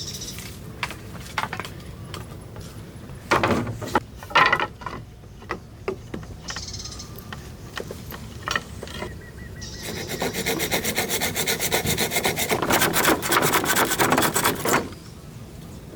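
A hand tool rasping against wood in fast back-and-forth strokes for about five seconds, near the end. Before it come scattered knocks and clatter of wood being handled.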